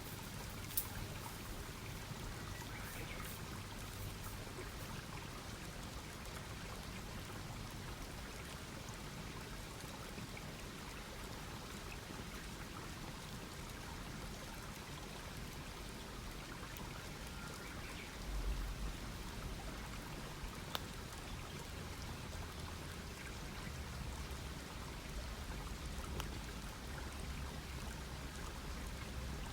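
Campfire burning with a steady hiss and an occasional sharp crackle or pop, about a second in and again near 21 s. A low rumble swells up about 18 s in and again from about 23 s.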